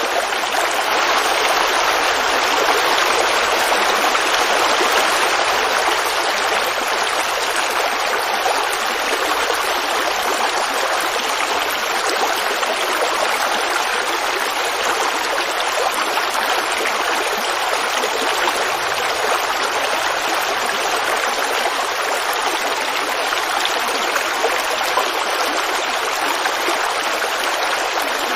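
Creek water flowing and babbling in a steady, unbroken rush.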